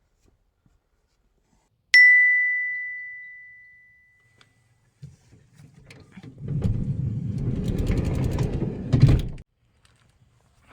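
A single bright bell-like ding, one clear tone that fades away over about two seconds. A few seconds later comes a rumbling, rustling noise with a few clicks, which stops abruptly.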